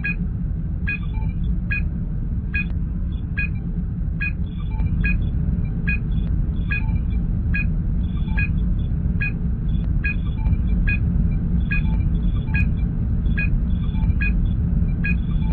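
Science-fiction starship sound effects: a steady low engine rumble with a short, high electronic scanner beep repeating about every 0.8 seconds.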